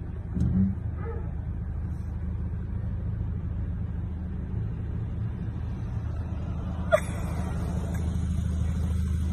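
Car engine idling, a steady low hum heard from inside the car, with a sharp click about seven seconds in.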